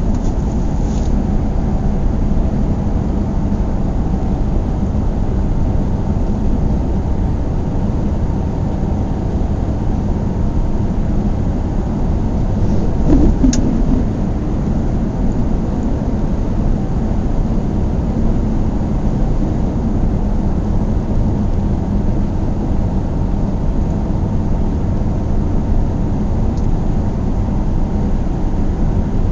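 Car driving along a road: steady low rumble of tyres and engine, with a brief louder bump about halfway through.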